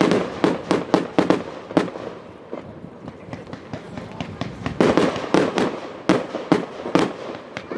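Aerial fireworks shells bursting in rapid succession, many sharp bangs close together. The bangs ease off about two seconds in, then a second rapid run of bursts starts about five seconds in.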